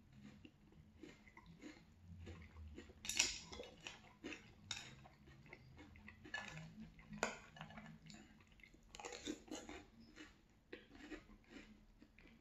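Close-miked chewing of crunchy French Toast Crunch cereal in milk: a steady run of crunching bites about twice a second. A couple of sharp clicks of the plastic spoon against the glass bowl, the loudest about three seconds in.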